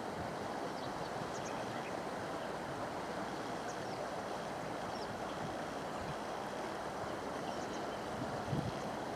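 Steady rushing noise with a few faint, short high chirps from small birds scattered through it.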